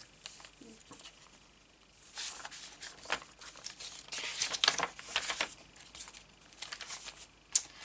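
Paper and card pages of a handmade junk journal rustling in short bursts as they are flipped through, with a sharp tap near the end.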